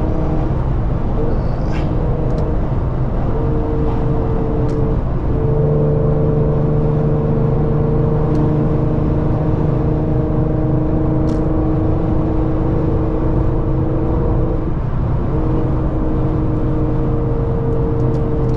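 Infiniti Q50's VQ V6 engine droning steadily at highway cruise, heard from inside the cabin over road and wind noise. Its tone breaks and settles again briefly about five seconds and fifteen seconds in.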